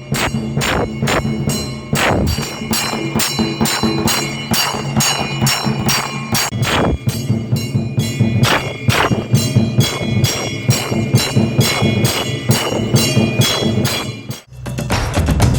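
A 24-inch melathalam, an automatic temple drum-and-bell machine, playing: its mechanism beats the drum in a steady rhythm of about three strokes a second while a bell rings along with it. Near the end the beating stops for a moment, then starts again.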